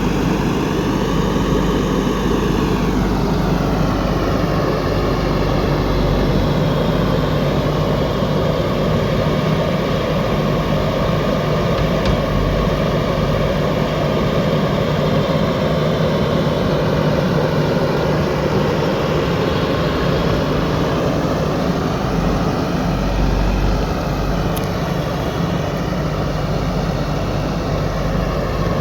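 JCB 3DX backhoe loader's diesel engine running steadily under load. Its revs sag and pick up again near the start and once more about twenty seconds in.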